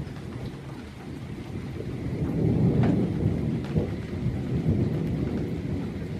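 Rain falling, with scattered drop ticks over a low rumble that swells loudest about two to five seconds in.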